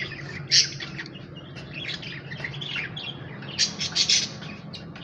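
Lovebirds chirping, a run of short, shrill calls with a louder cluster about three and a half to four seconds in, over a low steady hum.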